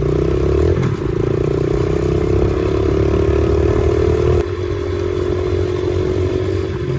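Dirt bike engine running steadily under throttle as it is ridden, with a brief dip about a second in and the engine easing off a little past halfway.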